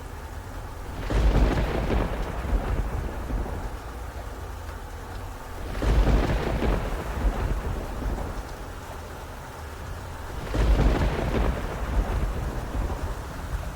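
Thunderstorm: steady rain with three rolls of thunder, about a second in, near the middle and about three-quarters through. Each roll starts fairly suddenly and rumbles away over a few seconds.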